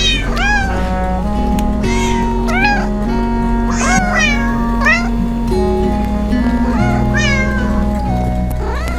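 Cat meows, one short call rising and falling in pitch about every second, over background music of sustained notes that step from one pitch to the next.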